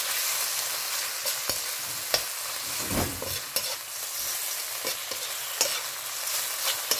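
Raw prawns sizzling in hot oil in a wok as they are stir-fried, with the utensil scraping and clicking against the wok several times.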